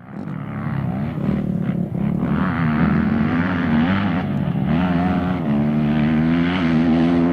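Heavy truck engine pulling under load, its note swelling at first and then rising and falling in pitch as it drives on.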